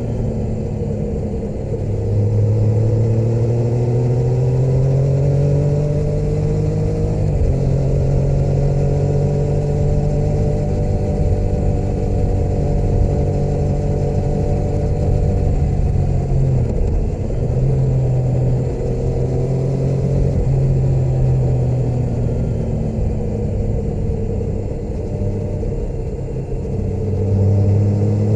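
Motorcycle engine running under way, its pitch climbing, stepping at a gear change about a quarter of the way in, holding steady, then falling off and climbing again near the end. A steady low rumble of wind and road noise lies under it.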